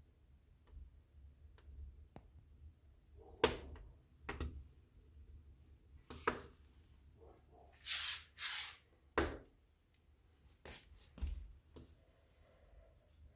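Fireplace wood fire crackling, with irregular sharp pops and snaps, a loud snap a little past the middle, and two short hisses just before it.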